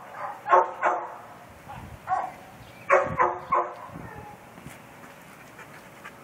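A dog barking in short sharp barks: two near the start, one about two seconds in, then three quick barks about three seconds in.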